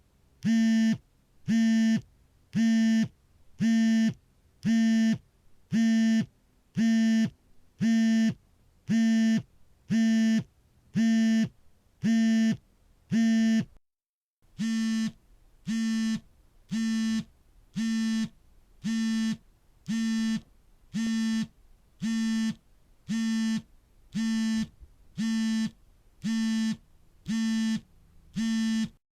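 Smartphone vibration motor buzzing in the on-off pattern of an incoming call: a steady low buzz about half a second long, repeating about once a second. About 14 seconds in it cuts to dead silence for a moment, then the buzzing resumes slightly quieter.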